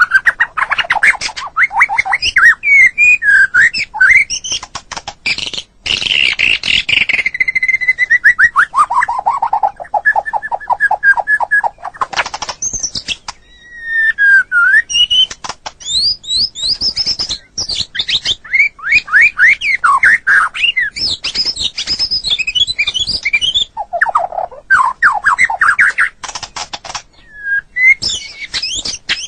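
White-rumped shama (murai batu) singing a long, varied song of rapid trills, chattering runs and whistled glides. One long run of quick notes falls steadily in pitch, and there are a couple of brief pauses.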